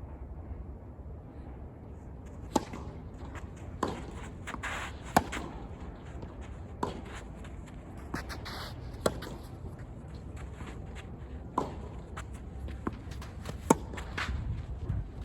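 Tennis ball knocks on a court: sharp single hits and bounces, about seven of them spaced one to two and a half seconds apart.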